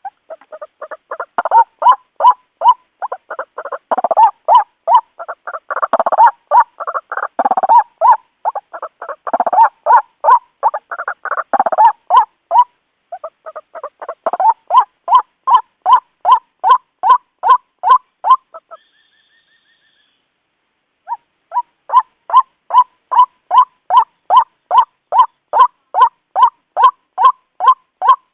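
White-breasted waterhen (ruak-ruak) calling, a fast monotonous run of repeated croaking notes as used for a bird-catching lure. The calls are dense and overlapping for the first half, then settle into an even series of about two to three a second after a brief pause that holds a faint high whistle.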